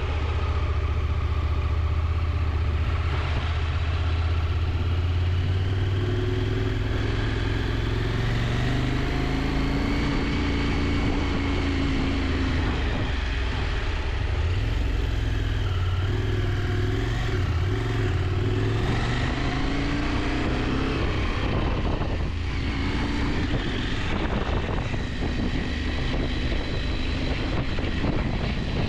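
KTM 890 Adventure's parallel-twin engine running under way, its pitch rising and falling with the throttle, over road and wind noise.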